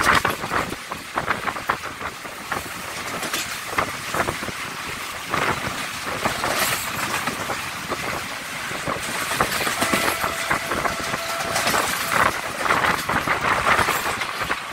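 Passenger train running at speed, heard from a carriage window: a steady rushing running noise with the wheels clattering over rail joints in irregular clicks. About ten seconds in, a faint steady high tone sounds for nearly two seconds.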